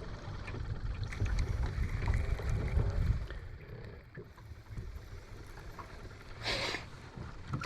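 Low, uneven rumble of wind and water on a small fishing boat, with a short hiss about six and a half seconds in.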